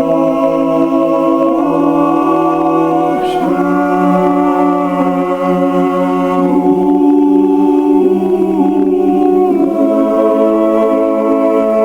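Background choral music: voices singing slow, held chords that change every couple of seconds.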